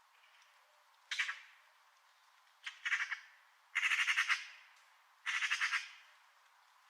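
A bird giving harsh, rattling squawk calls, four bouts in all, the middle two longer.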